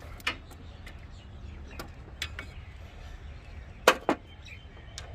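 Scattered clicks and knocks of hand tools on metal as an AC pipe fitting is worked loose, with two sharp ones close together about four seconds in, over a low steady hum.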